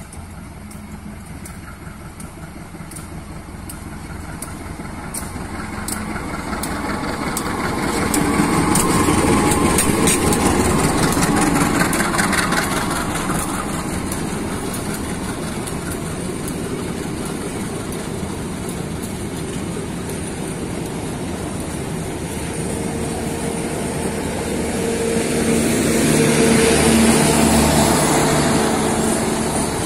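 Diesel-electric locomotive hauling a passenger train approaches and passes close by, loudest about eight to twelve seconds in, followed by the steady running and wheel noise of the passenger carriages rolling past, which swells again near the end.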